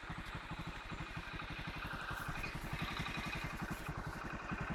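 Vehicle engine running steadily with a rapid, even throb of about ten pulses a second.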